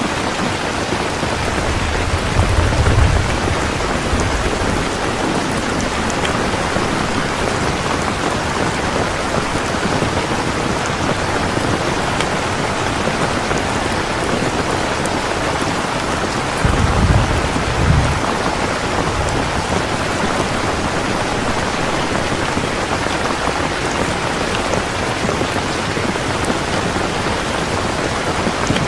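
Heavy rain falling steadily, with two short low rumbles of thunder: one about two seconds in and another about seventeen seconds in.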